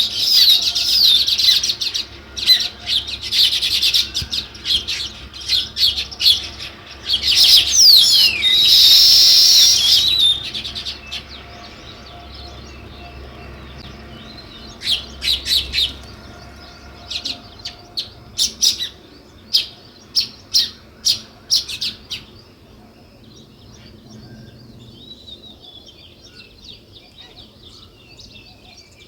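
House sparrows chirping: dense, rapid chirps for about the first ten seconds, with a loud hissy burst around eight to ten seconds in. Then come separate sharp chirps, and over the last several seconds only faint chirping.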